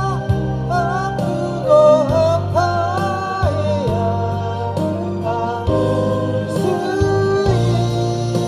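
A singer carrying a melody with sliding, bending notes over instrumental accompaniment with a steady bass line.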